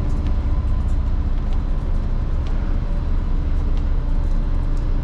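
Truck engine running at a steady idle, with a few faint light clicks.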